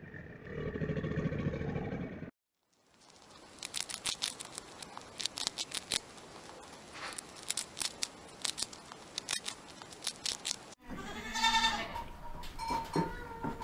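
A short, low, rough animal growl, then a hamster nibbling food: a long run of small, crisp chewing clicks. Near the end a calf bawls, the loudest sound.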